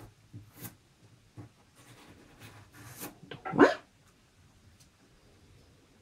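A dog barks once, loud and short with a rising pitch, about three and a half seconds in. Faint ticking and scratching of a pencil tracing on card comes before it.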